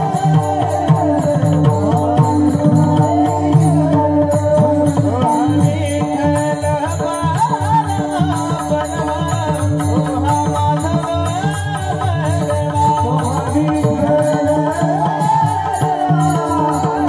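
Marathi kirtan music: a gliding sung melody over a steady held drone, with dense hand-drum strokes throughout.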